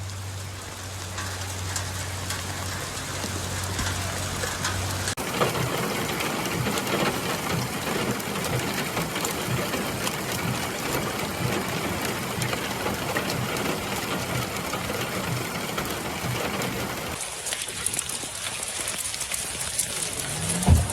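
Heavy rain and running storm water, a steady rushing noise. A steady low hum sits under it for the first five seconds, and the sound changes abruptly at about five and seventeen seconds.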